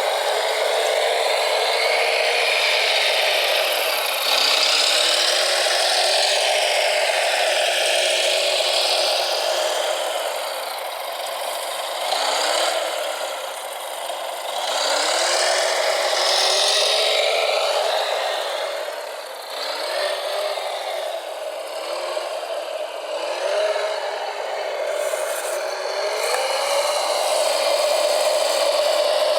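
Electric motors of radio-controlled construction machines whining, the pitch dipping and climbing back again and again as they slow and speed up, over a steady grinding noise.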